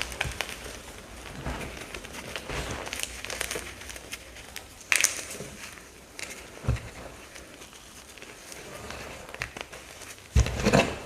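Dried teal paste blocks and chunks crunching and crumbling under pressure: a string of irregular crackles, with a louder crunch about halfway and a heavy crunch near the end.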